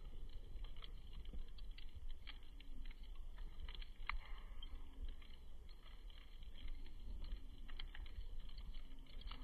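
Wood campfire crackling: irregular small pops and snaps, over a steady low rumble.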